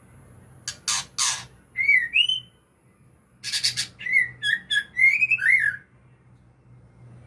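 White-rumped shama (murai batu) singing in two bursts, about a second in and again around three and a half seconds in. Each burst opens with a few harsh, noisy notes and goes on into short whistled slurs, the second burst longer.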